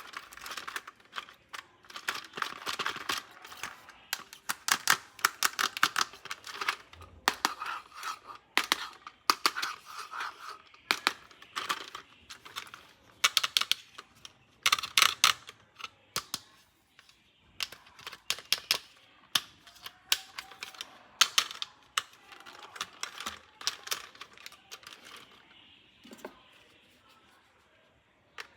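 Rapid, irregular clicking and rattling of plastic toy parts and packaging being handled, thinning out near the end.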